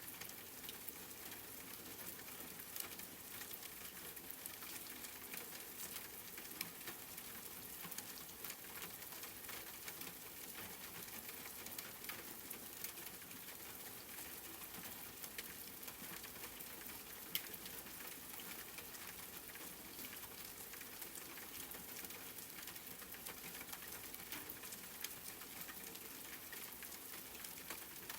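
Steady rain: an even hiss of falling rain with fine pattering drops, and now and then a sharper drip.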